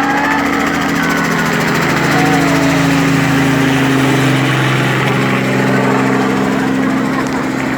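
Helicopter flying low overhead: a steady, loud drone of engine and rotor.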